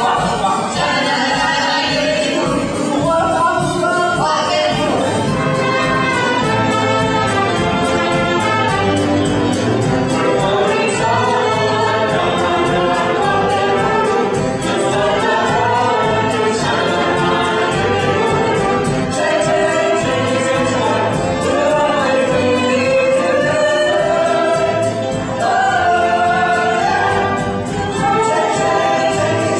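A cast of many voices singing a stage-musical number together, with a band accompanying on a steady beat.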